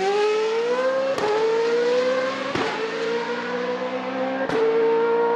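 A car engine revving up, its pitch climbing over the first two seconds and then holding steady, with three sharp cracks along the way.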